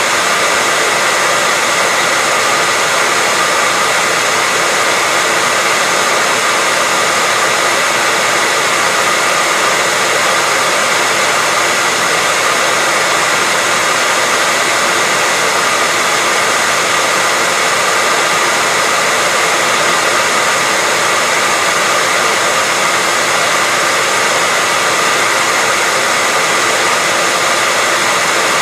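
Hair dryer blowing steadily, an even rushing hiss with a faint steady whine, unchanging in level.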